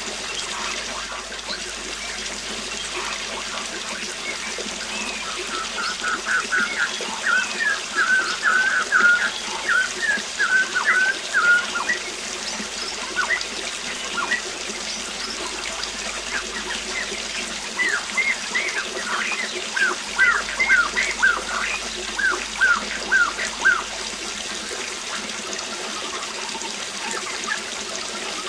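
Waterfall rushing steadily, with a bird calling in two bouts of quick, short repeated notes, the first a few seconds in and the second about two-thirds of the way through.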